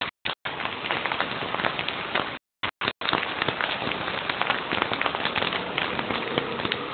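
Rain pattering, a dense crackle of many small drops; the sound cuts out briefly a few times.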